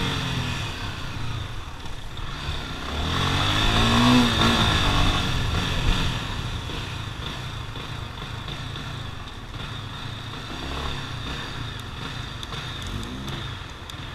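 Motorcycle engines running, with one rising and falling rev about three to five seconds in. After that comes a steadier, quieter engine sound.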